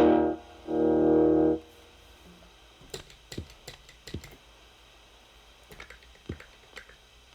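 Telecaster electric guitar through an MXR Distortion+ at maximum distortion, stacked with a Boss SD-1 at high drive, ringing out two sustained, heavily distorted chords that stop about a second and a half in. After that there is low hiss with scattered light clicks and taps from the strings under the high gain.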